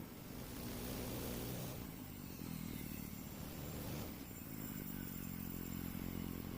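An engine running steadily, its level dipping briefly near the start and again about four seconds in.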